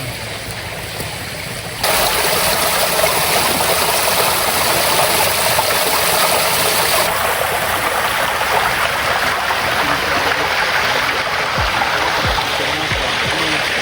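Creek water rushing over rocks: a steady, loud splashing rush that jumps louder about two seconds in.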